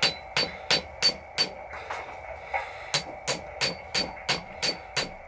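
Hammer tapping lightly on a soft bronze valve plug, flattening its pried-up corners. About three taps a second, with a short pause near the middle, each tap leaving a brief high metallic ring.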